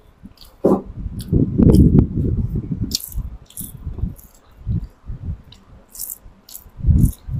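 Close-miked eating by hand: chewing and wet mouth sounds in irregular bursts, with short crisp crunches and clicks scattered through.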